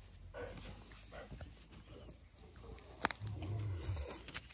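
A large dog's faint, on-and-off sounds close by. About three seconds in there is a sharp click, followed by a brief low rumble, which is the loudest part.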